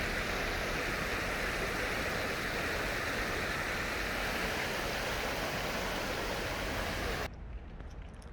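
Steady rush of water flowing and tumbling in a stream, cutting off suddenly about seven seconds in.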